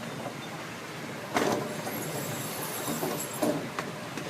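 Park excursion train running along its track, a steady rolling noise, with a sudden loud bump a little over a second in.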